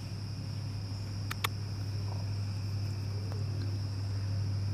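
Five-week-old golden retriever puppies making faint, brief whimpers over a steady electrical hum with a high steady whine. Two sharp clicks come about a second and a half in.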